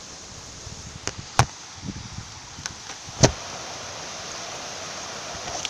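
Heavy rain pouring steadily, with a few sharp knocks over it, the loudest about a second and a half and three seconds in.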